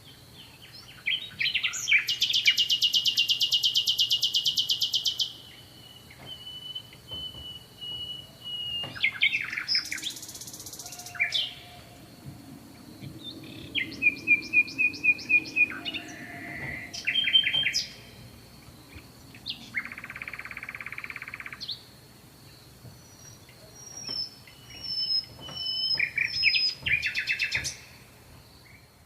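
Small songbirds singing and chirping: a long, very fast trill, thin whistled notes, quick runs of repeated chirps, and a harsh buzzy call. Near the end comes a series of short, falling high notes.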